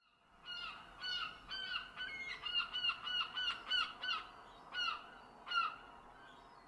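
Birds calling: a quick run of about a dozen short, harsh calls, then two more spaced about a second apart.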